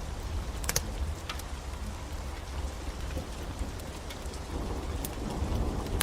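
Steady rain over a low rumble, with a few sharp crackles from a wood fire, a quick double pop about a second in.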